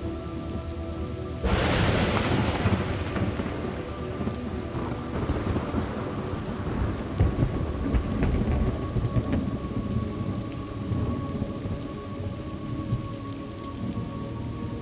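Steady rain falling, with a sharp thunderclap breaking about a second and a half in and rolling off into low rumbling over several seconds.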